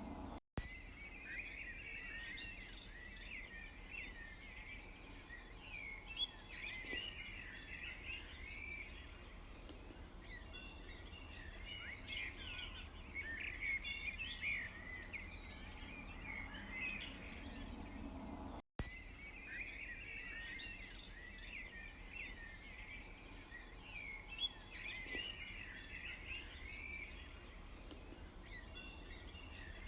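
Several small songbirds chirping and trilling together over a steady low hum. The sound cuts out for an instant twice, about half a second in and again near the middle, and the same stretch of birdsong then plays again, as in a looped recording.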